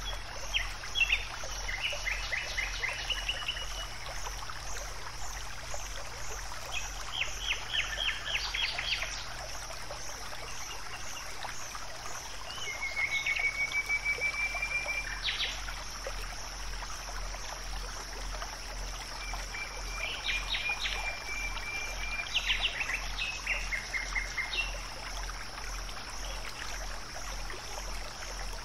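Nature ambience: birds calling in short, rapid trilled phrases every few seconds over a steady high, pulsing insect chorus, with a low hum underneath.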